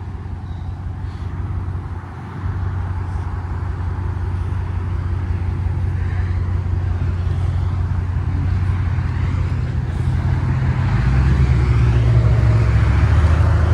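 A motor vehicle engine running close by, a steady low hum that gets louder, stepping up about two seconds in and again near the end.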